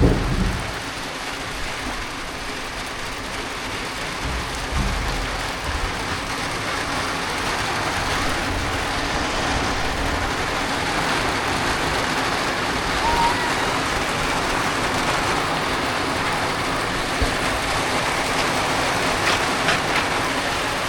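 Heavy rain falling steadily in a downpour. There are a few low thumps near the start.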